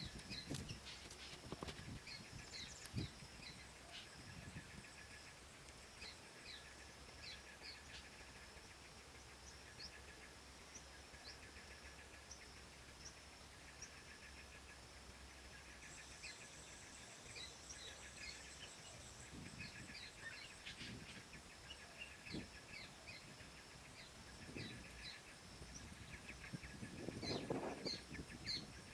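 Many small birds chirping over a steady, high insect buzz, with a few soft knocks, the loudest near the end.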